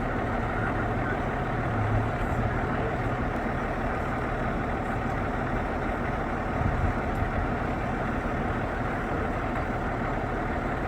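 A vehicle engine idling steadily with a low rumble, swelling briefly about two seconds in and again around seven seconds in.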